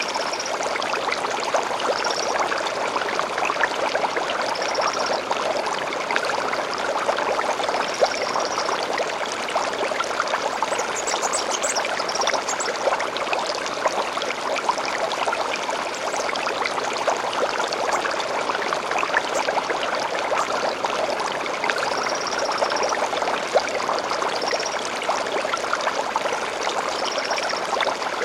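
Stream flowing steadily over rocks, an even rushing and splashing, with short high bird calls repeating every few seconds above it.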